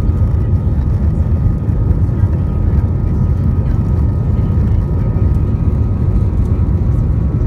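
Airbus A320 engines running steadily, heard inside the cabin as a low rumble with a faint, even high whine.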